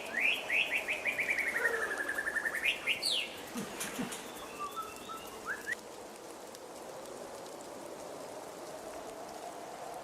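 A songbird sings a fast trill of short notes that fall steadily in pitch, ending in a couple of quick upward notes. A few faint chirps follow about five seconds in, over a steady background hiss.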